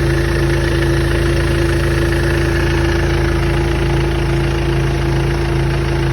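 Mercedes E 220 CDI Coupé's four-cylinder diesel engine idling steadily on a cold start, with a steady tone running over the engine sound: the odd noise the owner is asking about.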